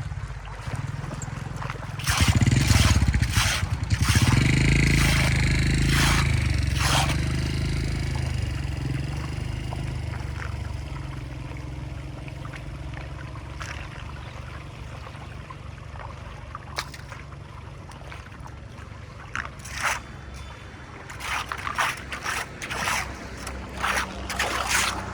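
Water rushing and splashing, loudest from about two seconds in and then slowly dying down, with sharp scrapes and knocks across it. Another cluster of scrapes and knocks comes near the end.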